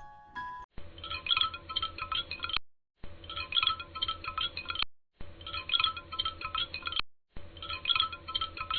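Tinkling chimes, a jangle of many small metallic notes, played four times in near-identical stretches of about two seconds with short silent gaps between them.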